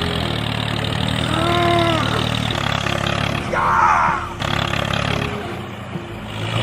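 A small engine running steadily at a low rumble. Over it come a few short, high-pitched sounds that rise and fall, one about a second and a half in and a louder one about four seconds in.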